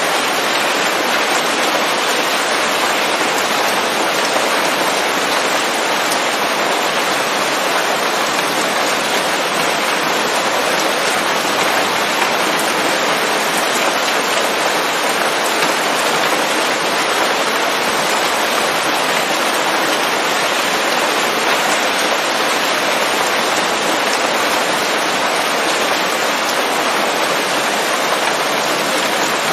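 Steady rain falling on forest leaves: a dense, even hiss of countless drops that never lets up or changes.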